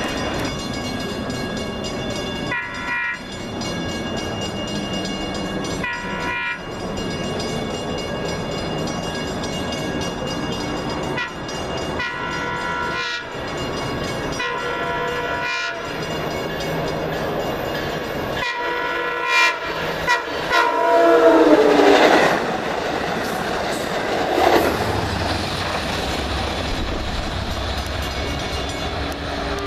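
Long Island Rail Road train horn sounding in a series of long blasts with short breaks between them. About two-thirds of the way through it is loudest and its pitch slides down as the train passes, then gives way to the low rumble of the passing train.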